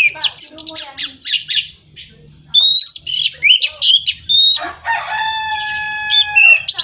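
Orange-headed thrush (anis merah) singing a rapid run of varied chirps and sweeping whistled phrases, then a long, steady crow-like note of about two seconds in the second half.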